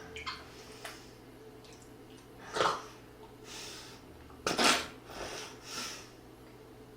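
Eating sounds from a person at a meal of soup: a few light clicks of dishes or cutlery, then two loud, short breathy noises about two and a half and four and a half seconds in, with softer breaths between.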